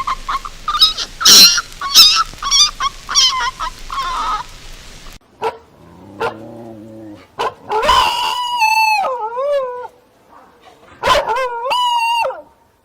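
Animal calls: a rapid run of short, high chattering cries, then after an abrupt cut a brief low grunt and two long wavering cries, the second about three seconds after the first.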